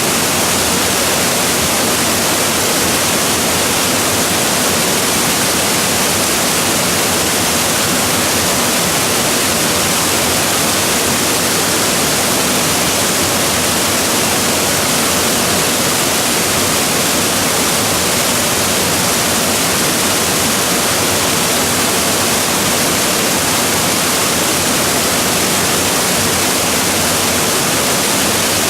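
Waterfall crashing steadily: a loud, unbroken rush of falling water, strongest in the hiss of the high end.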